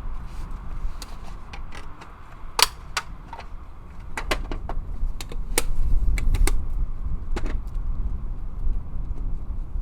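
Scattered sharp metallic clicks and clinks of hand tools being handled, about a dozen in all and irregular, over a steady low rumble that grows louder around the middle.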